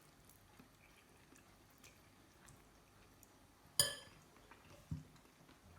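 Quiet eating sounds with small faint clicks, a sharp ringing clink of a utensil against a bowl about four seconds in, and a soft thump about a second later.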